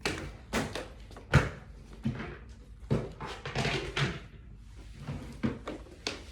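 A series of sharp knocks and thumps, about eight of them and irregularly spaced, the loudest about a second and a half in, with a longer rustling stretch between them just past the middle.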